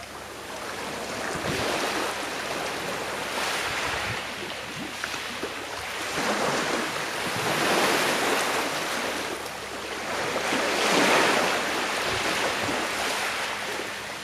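Gentle sea waves washing onto a shore, rising and falling in slow surges every few seconds, the strongest swells about eight and eleven seconds in.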